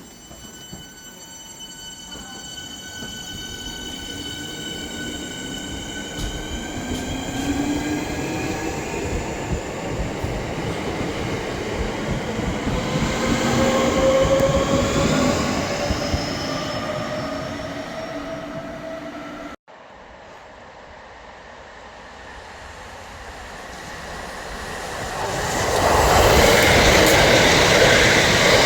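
A train pulling away, its motor whine rising steadily in pitch over several seconds. After an abrupt cut, a second train comes through, growing into a loud rush of wheel and rail noise near the end.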